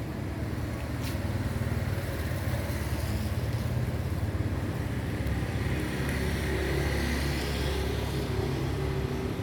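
A motor vehicle running steadily, with a low rumble throughout.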